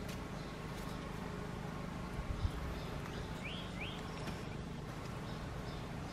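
Steady low outdoor rumble, with a bird giving two short chirps in quick succession a little past halfway.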